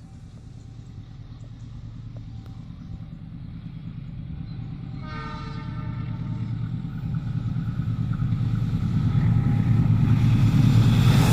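KAI CC201 diesel locomotive approaching, its low engine rumble growing steadily louder. Its horn sounds once, about five seconds in, for about a second. Near the end the noise swells sharply as the train draws close.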